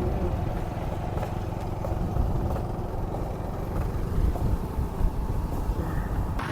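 A vehicle running along the road: a steady low rumble of engine, tyres and wind.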